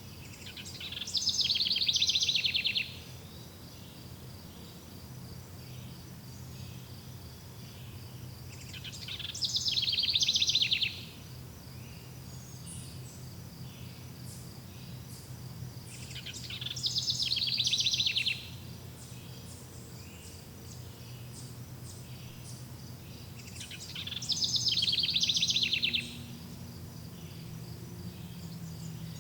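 A songbird sings the same rapid trilled phrase four times, about every seven to eight seconds. Each phrase lasts about two seconds, swells and then stops abruptly. Under it runs a steady, pulsing cricket-like insect trill over a low, even background rumble.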